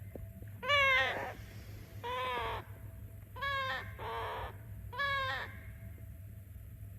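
A parrot calling over and over: about five short squawks, one every second or so, each rising and then falling in pitch. Some calls are clear and others harsh.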